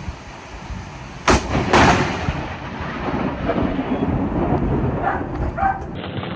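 Thunder from a close lightning strike: a sharp crack about a second in, a second crack half a second later, then a long low rumble.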